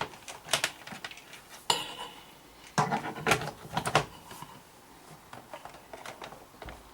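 Clicks and clatter of hard objects being handled, with a loud clatter a little under two seconds in and a busier run of knocks and clicks around three to four seconds in.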